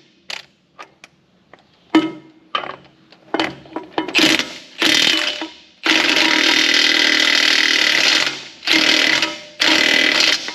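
Impact wrench run in bursts, rattling as it hammers bolts tight, with the longest run, about two and a half seconds, in the middle; a few light clicks come first.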